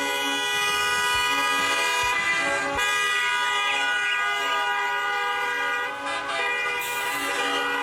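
A vehicle horn sounding in one long, steady blast made of several held tones, with small shifts in pitch about three and six seconds in.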